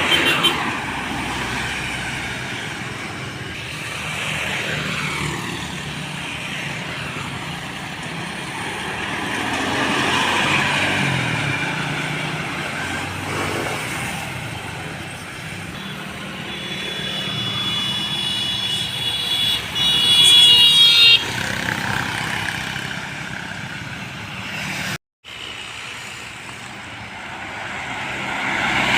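Roadside traffic: trucks and cars passing one after another, the road noise swelling and fading with each vehicle. About two-thirds of the way through, a vehicle horn sounds for a few seconds, the loudest moment, and the sound cuts out briefly near the end.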